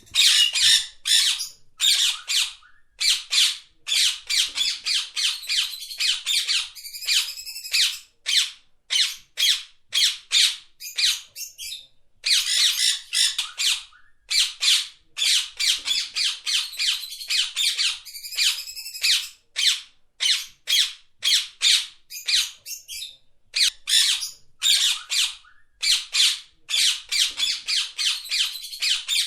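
Parrot squawking over and over in harsh, rapid calls, in runs broken by a few short pauses.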